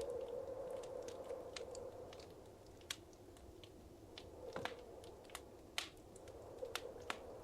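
Wood fire crackling in a fireplace: irregular sharp pops and snaps, a dozen or more, over a soft rushing of the flames that fades after the first couple of seconds.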